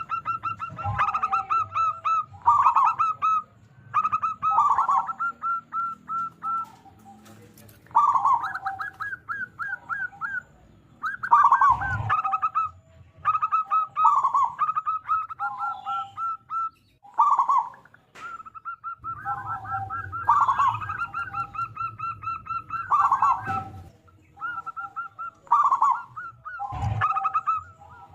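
Zebra dove (perkutut) singing its cooing song, phrase after phrase: a quick run of short high notes falling into lower drawn-out coos, with short pauses between phrases. A couple of brief knocks come partway through and near the end.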